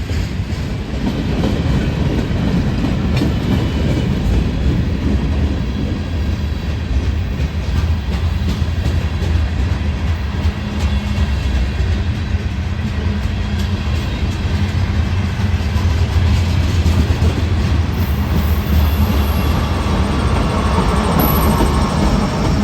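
Train passing close by: a steady, heavy rumble of wheels on rail with faint clicking, and a brief high squeal near the end.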